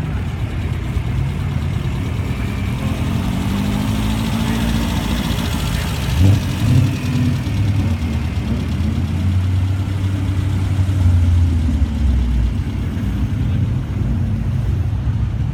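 Car engine running, with two short loud bursts about six seconds in followed by a steadier low drone for several seconds.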